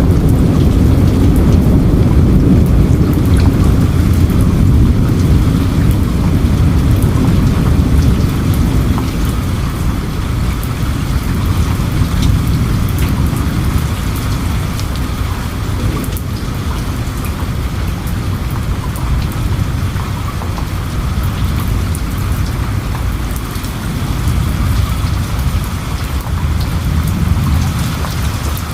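Steady heavy rain with a low rolling rumble of thunder underneath, loudest for the first third, easing off, then swelling a little again near the end.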